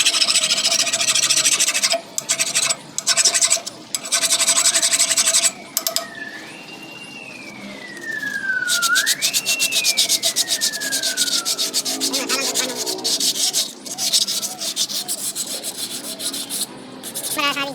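A power tool abrading metal in long passes, with a dense, rasping scrape. In a pause about six to nine seconds in, its motor whine rises quickly and then winds down slowly, twice, before grinding resumes.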